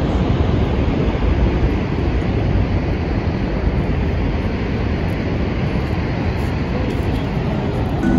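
Niagara Falls roaring: a loud, steady, deep rushing of falling water.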